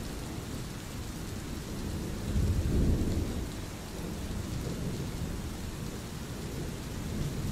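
Steady rain with low rolling thunder, the rumble swelling loudest about two and a half seconds in.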